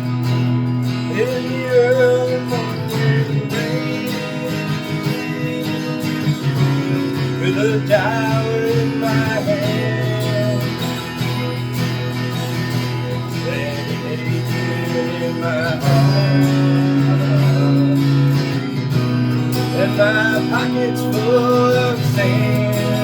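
Instrumental song intro in the key of E: guitar playing over steady sustained low notes, with a melody line that bends in pitch.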